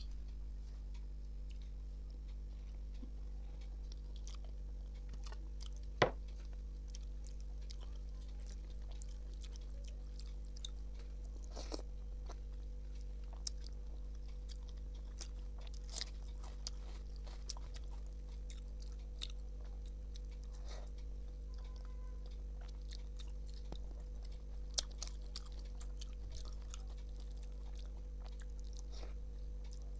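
Mouth sounds of someone chewing rice mixed with dal and jackfruit curry eaten by hand: soft scattered clicks and smacks, with one sharp click about six seconds in, over a steady low hum.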